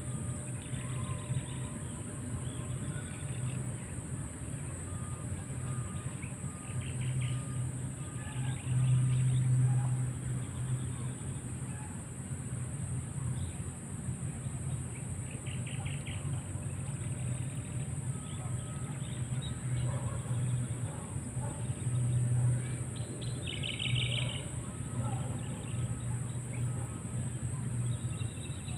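Wild birds chirping on and off in short, rapid trills, over a steady high hiss and a low rumble that swells twice.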